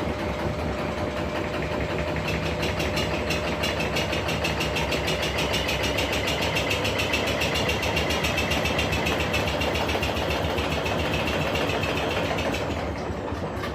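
Washing machine in a fast spin, shaking with a rapid, even rhythm of knocks over its motor hum; the sound dies down near the end.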